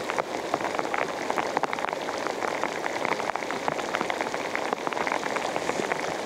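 Heavy rain coming down, a dense, irregular patter of drops striking close by over a steady hiss.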